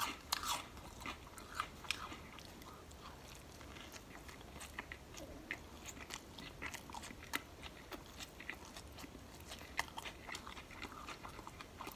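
A person chewing a mouthful of cold-cut sub sandwich close to the microphone: irregular soft wet clicks and smacks of the mouth.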